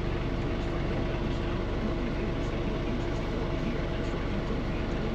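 John Deere 3046R compact tractor's diesel engine running steadily.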